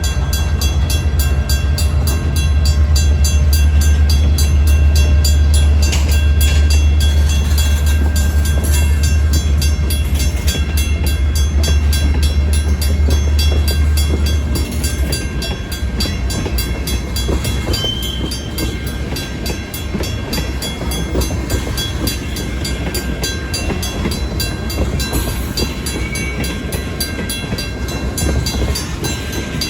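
BNSF local freight train moving over a grade crossing, with the first-generation WCH mechanical crossing bell ringing steadily with rapid, even strikes. A heavy low rumble from the train drops away about halfway through, leaving the quieter sound of the cars rolling.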